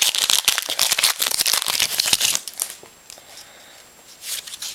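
Trading-card pack wrapper crinkling and cards being handled and flipped. There is dense, rapid crackling for about two and a half seconds, then it goes quieter, with a little more rustling near the end.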